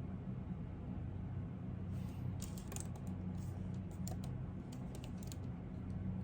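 Typing on a computer keyboard: a run of keystrokes starts about two seconds in and stops shortly before the end, over a steady low hum.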